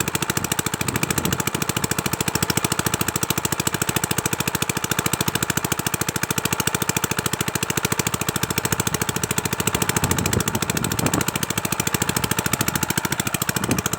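Small single-cylinder diesel engine of a power tiller or irrigation pump running steadily with a rapid, even knocking beat.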